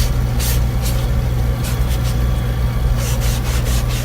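Oil-fired furnace burner running with a steady low hum, now firing after its water-soaked burner was dried and the fuel line bled. A few brief rustling scuffs come and go over it.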